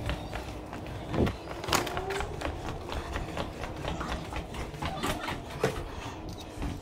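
Footsteps climbing a stairwell, heard as irregular knocks and clicks.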